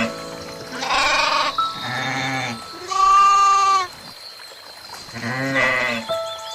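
Goats bleating: four calls, the third the loudest and longest.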